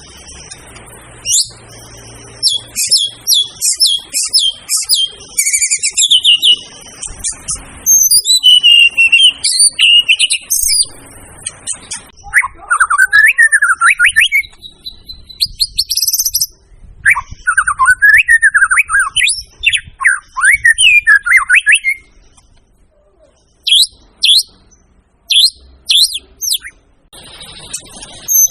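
White-rumped shama (murai batu) singing a loud, varied song. It opens with quick runs of high chirping and whistled notes, moves to lower warbling phrases, and ends with a series of sharp, high, falling notes, with short pauses between phrases.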